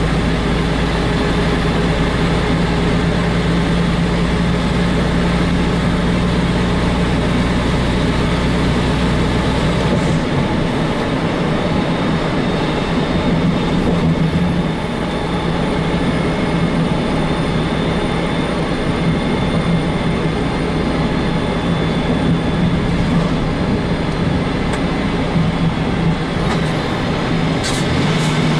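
Heavy truck's diesel engine running under way, heard from inside the cab, with tyre and road noise. About ten seconds in, the deep low rumble drops away and the engine note eases off; a few short clicks come near the end.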